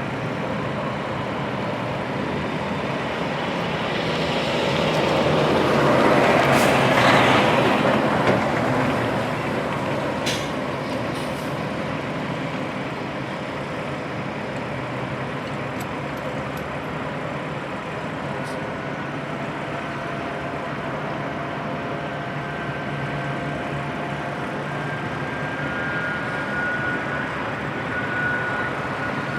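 Heavy truck engines running, with a louder swell that builds, peaks about seven seconds in and fades again.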